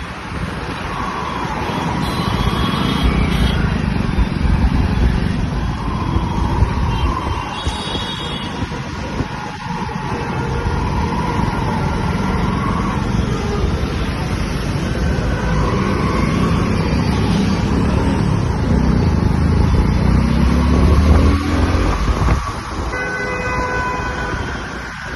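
Road traffic heard from a moving motorbike: engine rumble and wind noise on the microphone, with vehicle horns honking several times, and the engine rising in pitch as it speeds up a little past the middle.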